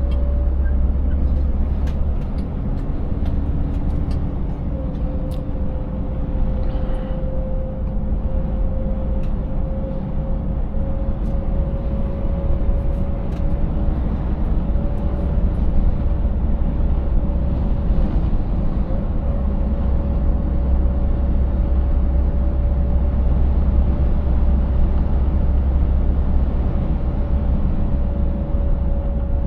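Scania 590S V8 truck running steadily under way: a deep engine rumble with a steady whine over it that barely changes in pitch. Scattered light clicks and rattles come in the first half.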